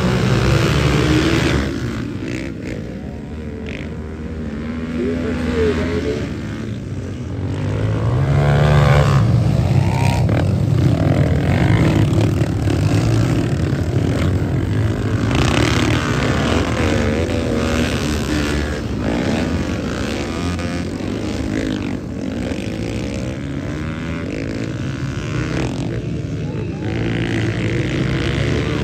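Pit bike engines racing, their pitch rising and falling over and over as the riders rev out and back off around the motocross track.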